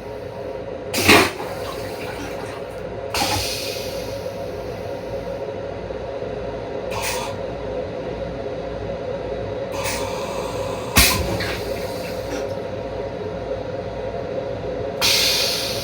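Steady hum inside an M7 railcar restroom, broken by six short, sharp rushing sounds, the loudest about a second in and about eleven seconds in.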